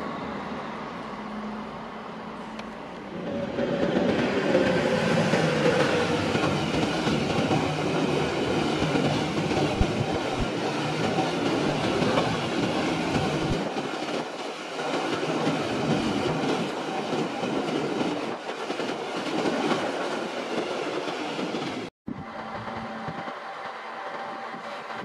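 A long freight train of covered hopper wagons passing close by: from about three seconds in, a loud, steady rush of wheel and rail noise lasting some eighteen seconds, ending in an abrupt cut. After the cut, quieter sound of a regional train pulling into the station.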